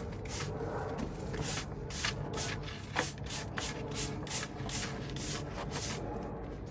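Broom sweeping a hard garden surface: short, scratchy bristle strokes, about three a second, stopping about six seconds in.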